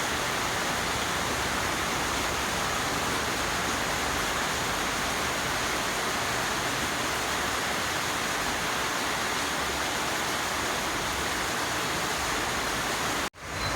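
Steady heavy monsoon rain falling, an even hiss, broken by a sudden brief dropout about thirteen seconds in.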